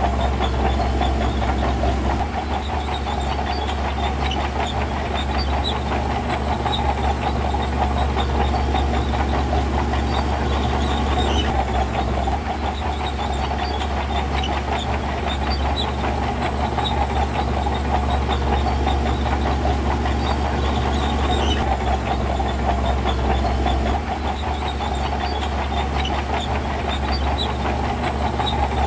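Heavy earthmoving machinery running steadily, a diesel engine at a constant working pace with a continuous dense rattling clatter over it.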